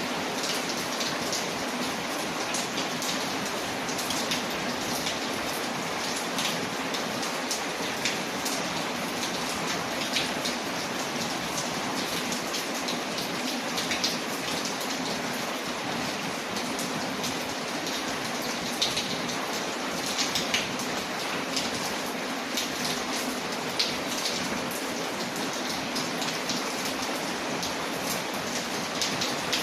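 Steady rain on a window, a constant wash of drops, with short sharp crackles and pops from a wood fire scattered throughout.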